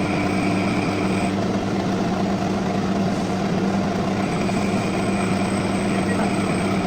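Metal lathe running steadily, a constant machine hum with a higher tone that drops out about a second in and comes back near four seconds in.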